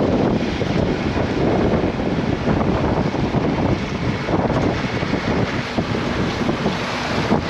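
Wind buffeting the microphone, over the rush of sea water along a sailboat's hull while under sail. It is a steady, loud noise with no engine tone.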